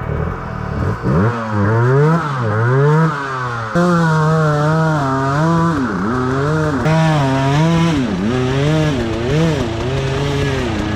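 Dirt bike engine revving hard, its pitch rising and falling again and again, about once a second, as the throttle is worked.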